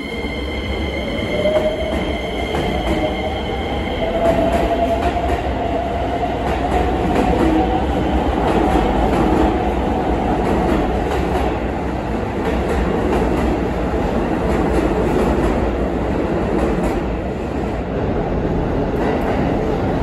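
Keisei 3000-series electric train pulling out of an underground station. Its inverter-motor whine rises in pitch as it accelerates over the first several seconds, then gives way to a steady rumble of wheels on the rails, echoing off the station walls. A steady high tone sounds at the start and stops about four seconds in.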